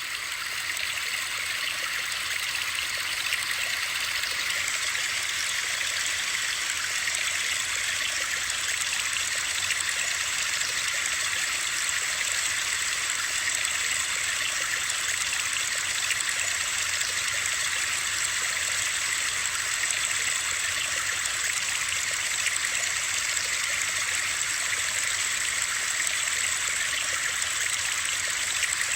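Steady white-noise sleep track: an even, unbroken hiss like running water, strongest in the upper range.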